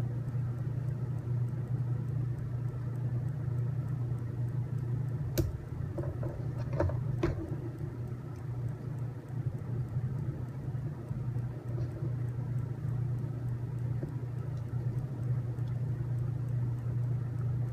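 A steady low hum, with a few sharp clicks about five to seven seconds in.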